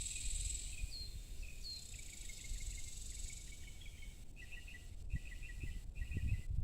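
Evening outdoor ambience: a steady high-pitched insect hum fades out about halfway through, while birds give a few short falling chirps. From about two-thirds in, a bird calls in quick repeated chirps over a low rumble.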